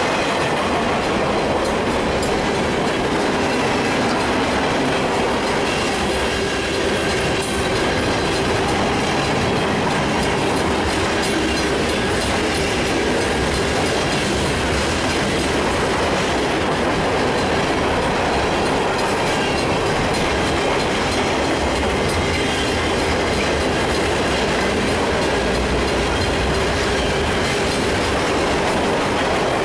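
Manifest freight train's cars rolling past close by: a steady rumble and clatter of steel wheels on the rails.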